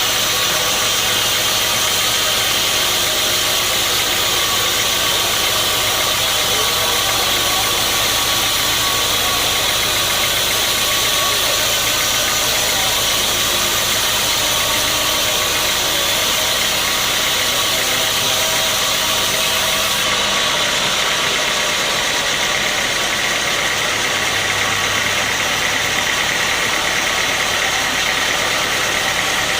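Sawmill machinery running steadily with a loud engine-like drone. About two-thirds of the way through, the deep rumble drops away and a higher whine near the middle of the range comes forward.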